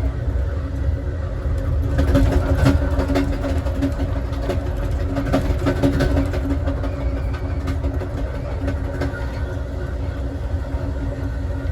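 Southwest Chief passenger train rolling along the track, heard from inside its last car: a steady low rumble with a few steady tones, and a run of sharp clicks and rattles from about two to seven seconds in.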